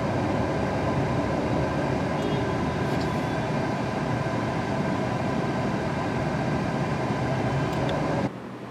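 Steady rumble of a moving vehicle, with faint voices underneath, cutting off suddenly near the end.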